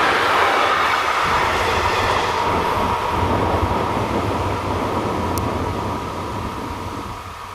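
Tail of an intermodal freight train rolling past over the rails and fading away as it leaves the crossing. Through it, the level crossing's classic electric warning bell rings steadily, carrying on once the train noise has died down.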